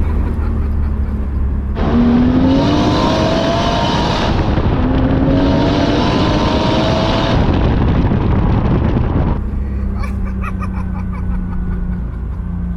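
Turbocharged 1JZ straight-six in a Lexus LS400 accelerating hard: the engine note climbs in pitch, dips briefly at an upshift about four and a half seconds in, and climbs again. About nine seconds in it falls back to a lower, steady cruise.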